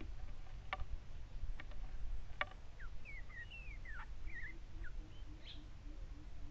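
A bird calling: three sharp chips, then a quick run of short, wavering whistled notes and one higher note, over a steady low background rumble.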